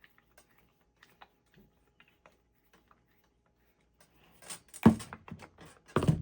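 Small metal parts and machine screws being handled while the starter is reassembled: scattered light clicks and ticks, then in the last two seconds a cluster of louder clattering knocks, two of them standing out.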